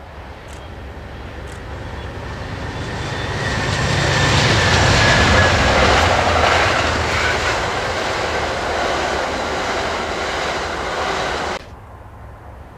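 Amtrak passenger train passing at speed: diesel locomotives and double-deck cars rolling along the rails in a steady rush that swells to its loudest about five seconds in. The noise then drops off suddenly near the end.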